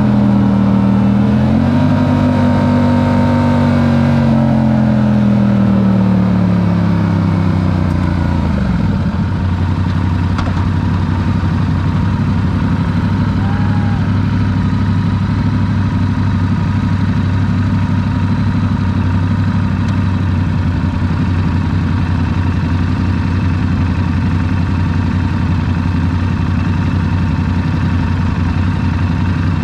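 Yamaha R7's parallel-twin engine running, its pitch rising slightly and then falling away over the first nine seconds or so, then settling into a steady, even idle.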